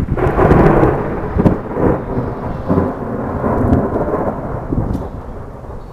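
Thunder rumbling after a close lightning strike, loudest in the first second and slowly fading, with rain falling.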